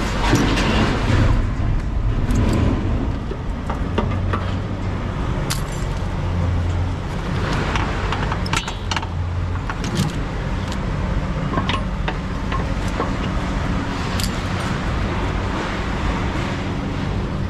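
Vehicle driving with a load of scrap metal: steady engine and road hum with the load rattling and clinking in frequent sharp clicks.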